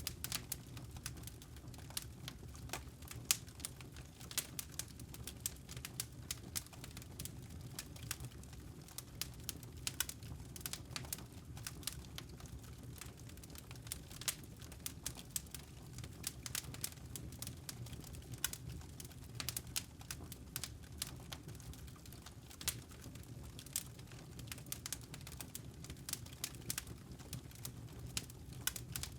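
Wood campfire crackling: frequent irregular sharp pops and snaps from the burning logs over a low steady rumble of the fire.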